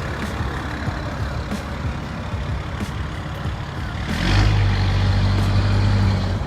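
A vehicle engine running with a steady low rumble. About four seconds in, a louder steady hum starts, opening with a short hiss.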